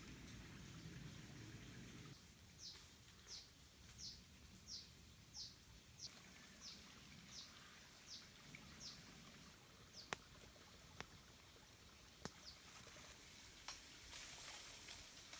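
A bird calling a run of about ten short, high notes, each sliding downward, roughly one every two-thirds of a second, with a few more notes later. Several sharp clicks come in the second half.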